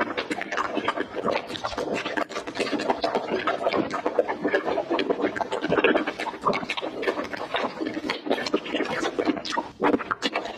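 Close-miked wet chewing and mouth sounds of someone eating soft watermelon-style jelly candy: a continuous stream of small sticky clicks and squishes.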